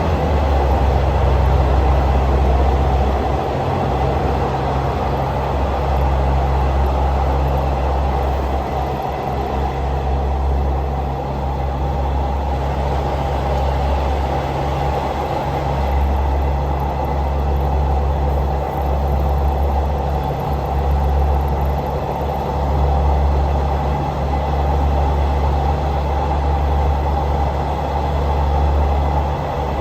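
Passenger train running, heard from on board: a steady low drone with a continuous rushing noise.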